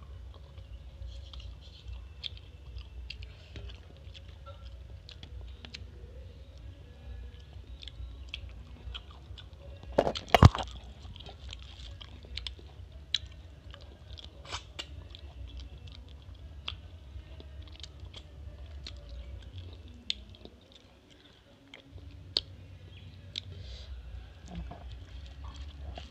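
Chewing and wet mouth clicks from a woman eating rice and curry by hand, with a loud thump about ten seconds in.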